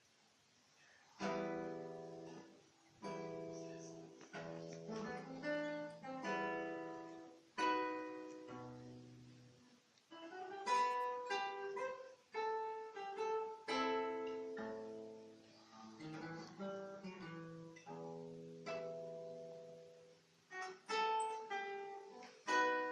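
Classical guitar played solo: after about a second of quiet, a slow plucked melody with chords, each note ringing on.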